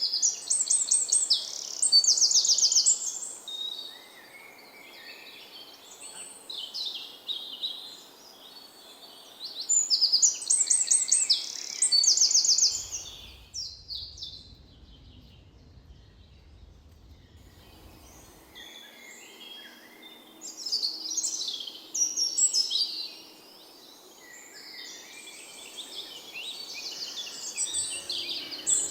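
Several songbirds singing. One loud, rapid trilled phrase about two and a half seconds long comes near the start and again about ten seconds later, with other birds chirping around it; the singing drops out for a few seconds in the middle, leaving a faint low hum.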